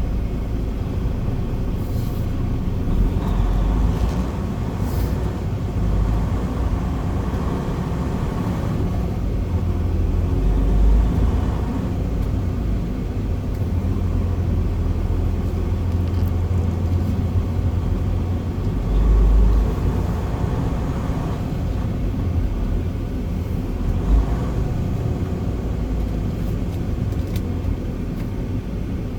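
Semi-truck's diesel engine and road rumble heard from inside the cab as the truck drives off, a steady deep rumble that swells louder a few times.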